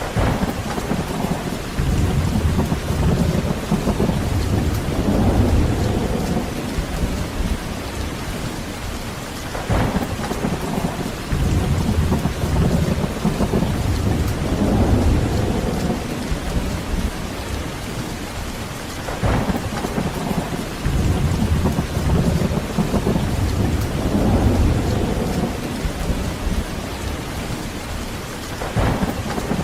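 Heavy rain falling steadily, with thunder: a sharp crack about every ten seconds, each followed by a low rolling rumble.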